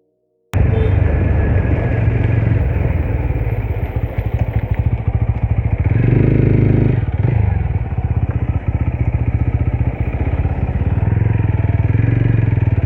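Motorcycle engine running at speed while riding, a steady low rumble with a fast firing pulse. It cuts in suddenly about half a second in.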